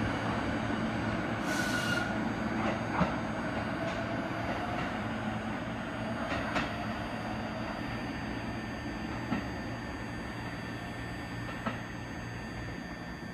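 A JR East E233-8000 series electric commuter train pulling away from the platform, its running noise slowly fading as it goes. A short hiss comes about one and a half seconds in, and a few scattered clicks follow from the wheels over the track.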